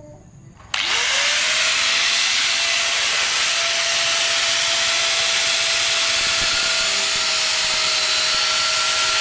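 An electric power tool switched on about a second in, its motor spinning up quickly to a steady whine over a loud hiss and running on steadily.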